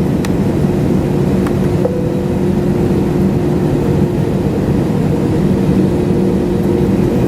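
Steady jet airliner cabin noise: engine and airflow roar at an even level, with a few steady hum tones running through it.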